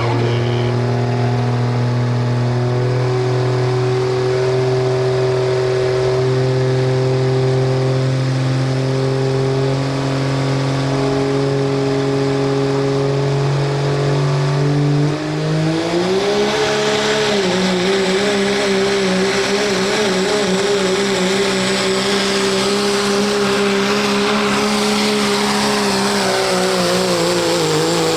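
Diesel pickup truck engine running hard at steady high revs during a truck pull. About halfway through, the pitch steps up and then wavers, with more hiss over the top. It dips briefly near the end.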